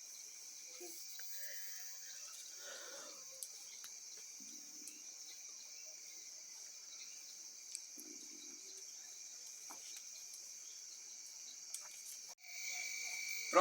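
Steady, high chirring of crickets in an evening insect chorus, with a few faint clicks. It cuts out briefly near the end, then resumes.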